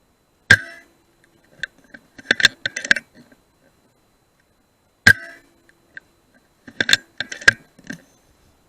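Two sharp rifle shots about four and a half seconds apart. About a second and a half after each comes a quick run of metallic clicks and clinks.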